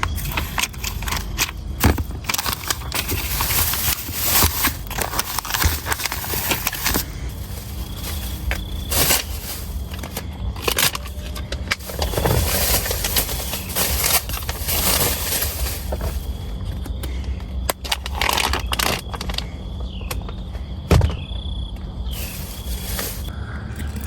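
Food-prep handling sounds: scattered clicks and knocks with scraping and rustling, as ingredients and containers are worked by hand.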